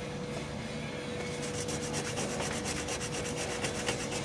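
Rhythmic scraping strokes, about five a second, starting a second or so in, over a steady hum.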